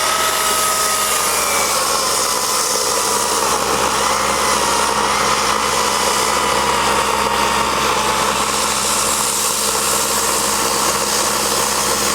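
Chainsaw running at full throttle, cutting a large knot off a log; its engine pitch sags a little and wavers under load as it cuts.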